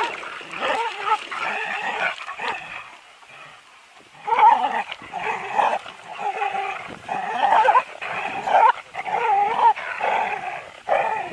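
A dog whining and yelping in a run of pitched, wavering cries, louder and more frequent from about four seconds in.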